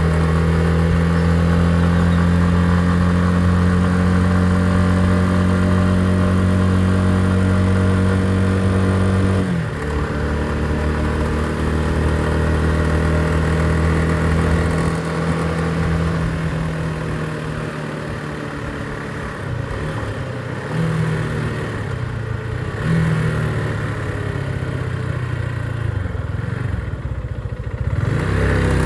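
Motorcycle engine running steadily under way. It drops off about a third of the way through, as at a gear change or easing off the throttle, then runs quieter with two short throttle rises later on.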